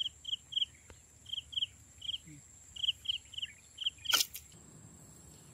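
A small bird chirping, about a dozen short high notes in irregular groups, over a steady faint high insect drone. About four seconds in there is one brief sharp rushing noise, the loudest sound.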